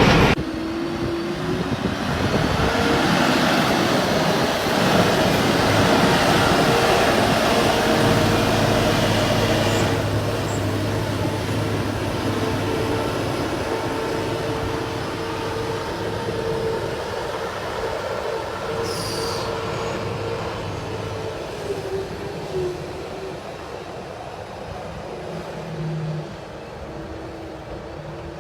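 Heavy diesel cargo truck running, with a steady high whine over the engine and road noise, fading gradually.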